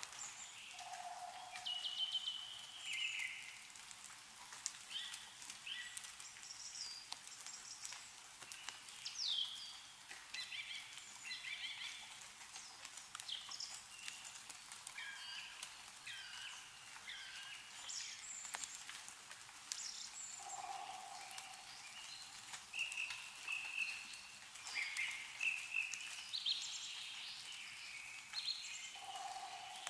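Small birds chirping and singing on and off, over scattered drips of meltwater falling from snowy trees. A lower, short call sounds three times.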